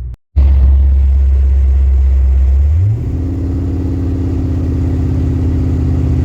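Mercury Grand Marquis engine and road noise while driving: a loud, steady low drone that glides up briefly about three seconds in, then settles into a different steady pitch.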